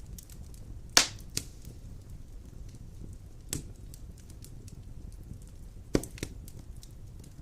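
Large logs burning in a stone fireplace: a low steady rumble of flame with scattered crackles and pops, the sharpest about a second in and about six seconds in.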